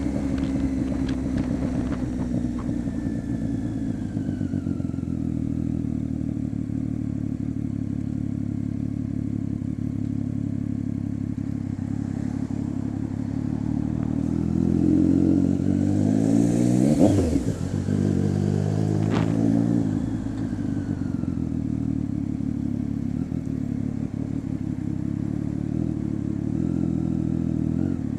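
Triumph Street Triple 675's inline three-cylinder engine idling through a Coffman exhaust with the baffle removed. About halfway through it is revved once, the pitch climbing to a peak and falling back to idle.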